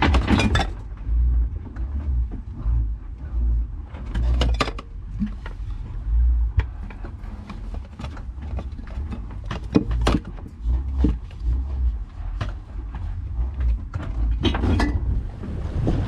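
Irregular knocks and clicks scattered over a gusty low rumble, typical of gear and fittings knocking about on a small sailboat rolling at sea.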